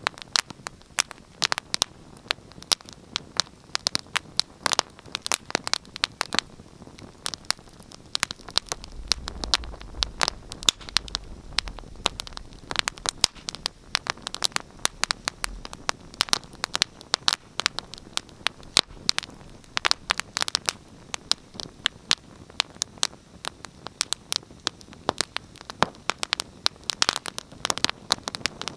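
Wood fire crackling, with frequent irregular sharp snaps and pops over a faint steady hiss. A low rumble comes in about nine seconds in and fades out about six seconds later.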